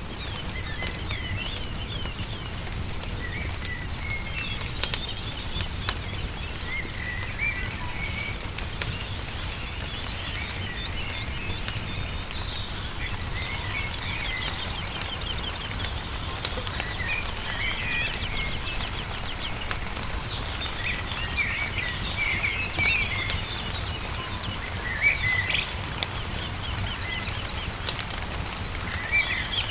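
Small songbirds chirping and twittering on and off, with a brief rapid trill about halfway through. Sharp pops and crackles of a burning wood fire run throughout, over a steady low rumble.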